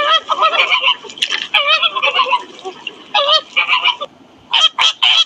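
A flock of flamingos honking, with many goose-like calls overlapping in quick clusters and a short lull near the end.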